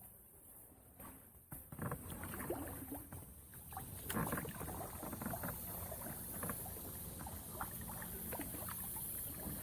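A kayak being paddled into brush: the paddle dips and splashes, and branches crackle and scrape against the hull. The sound starts about two seconds in, after a quiet opening, and keeps going with many small clicks and knocks.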